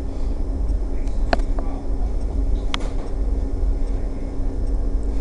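Steady low rumble and hum of railway station background noise, with two short high squeaks, one about a second in and one near the middle.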